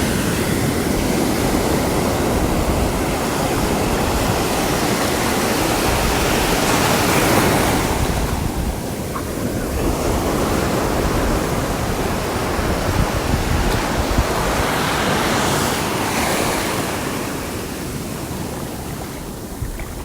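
Sea waves breaking and washing up the shore, the surf swelling about every eight seconds, with some wind on the microphone.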